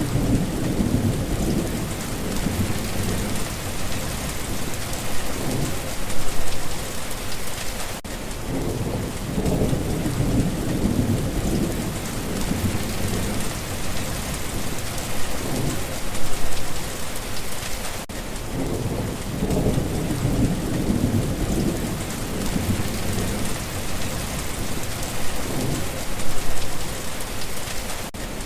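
Steady rain pattering on a surface, with low thunder rumbling that swells and fades several times.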